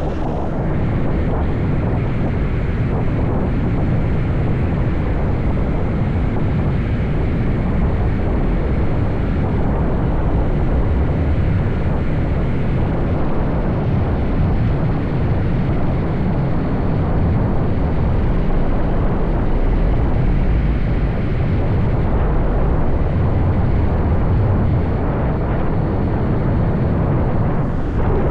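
Steady wind rush on the microphone of a moving motorbike, mixed with the bike's running and road noise.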